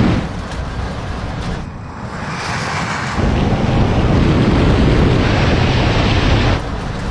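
Wind buffeting the microphone over a low vehicle rumble from cars on a drag strip, changing abruptly several times as the shots cut.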